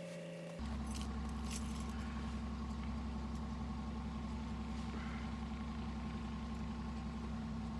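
Car engine running after a cold start in deep frost: its revs falling over the first half-second, then a steady idle with an even low pulse. A few light clicks, like keys, sound about a second in.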